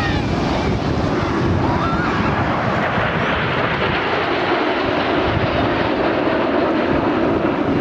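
Jet noise from a formation of BAE Hawk T1 jets flying a display, a steady rushing drone that grows stronger with a deeper hum from about halfway through.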